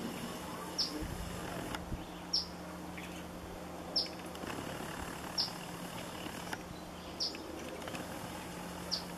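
A small bird giving a sharp, high chip call over and over, six short downward-slurred notes about a second and a half apart.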